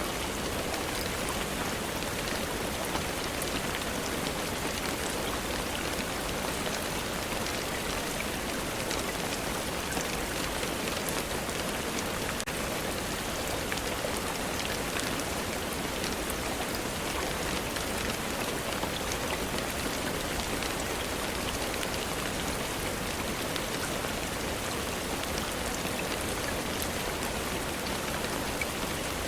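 Steady rainfall, an even wash with many small drop ticks scattered through it.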